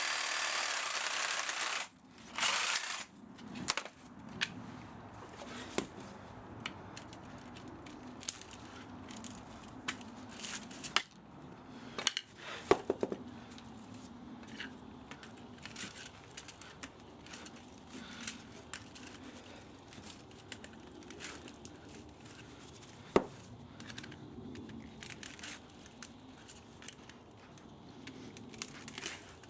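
Hand work stripping a scrap spa electric motor for its copper. A rasping, tearing noise lasts about two seconds and stops abruptly. It is followed by scattered crinkling, snipping and clicking as wire and insulation are pulled and cut, with a few sharper clicks.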